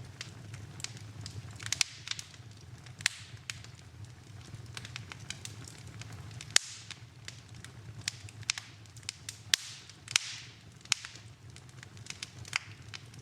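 Wood fire in a fireplace crackling, with frequent small ticks and a few loud sharp pops, over a low steady hum.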